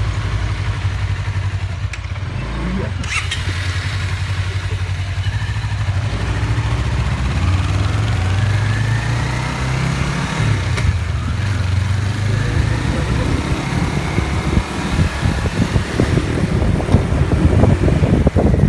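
Motorcycle engine pulling away as the clutch is let out and the throttle opened, then running under way with its pitch climbing gradually. Near the end it is joined by rough, gusty noise.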